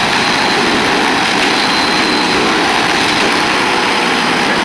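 A wood chipper running, a loud, steady mechanical noise.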